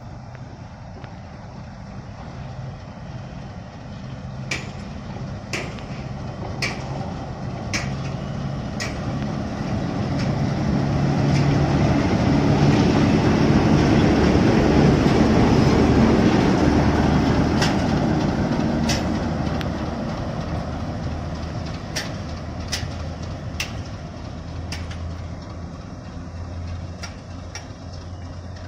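A train hauled by a broad-gauge diesel-electric locomotive passes by. The engine runs steadily and grows louder to a peak about halfway through, then fades, with sharp clacks of wheels over the rail joints through the middle of the pass.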